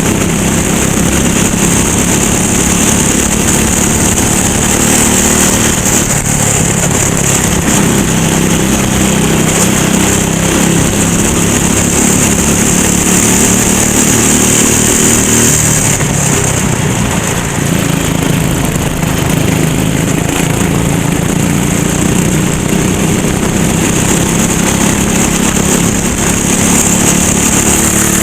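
Racing kart's small single-cylinder engine running continuously under load, its pitch dipping and climbing again as the kart slows and accelerates.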